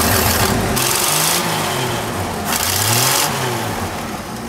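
The float's car engine running unevenly on its first fire-up, its speed rising and falling several times. A deep steady rumble drops away about a second in.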